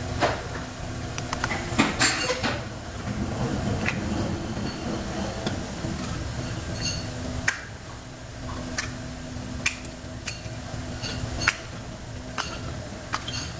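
Scattered sharp metallic clinks and knocks, like hand tools set down and tapped on metal parts during repair work, over a steady low hum.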